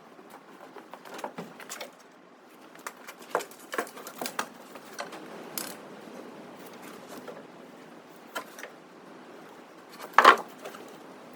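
Irregular light clicks and knocks, several in quick succession over the first few seconds, then a single louder knock about ten seconds in.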